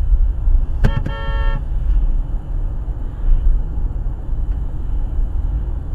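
One short car horn honk, under a second long, about a second in, over the steady low rumble of the car's road and engine noise.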